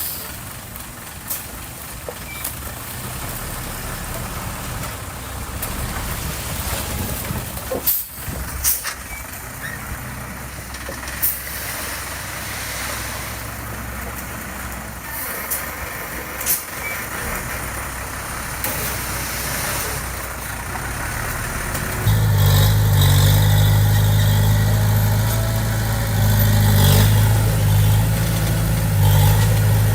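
Construction machinery working, with scattered clanks and knocks over a running engine. About two-thirds of the way in, a close engine comes in loud and steady with a low hum.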